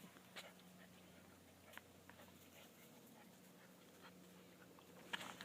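Near silence: faint scattered ticks and rustles from eight-week-old German shepherd puppies moving about, over a faint steady hum. A few louder clicks come near the end.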